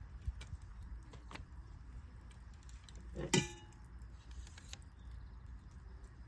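Wood fire crackling: scattered small pops, with one louder pop a little past the middle, over a steady low rumble.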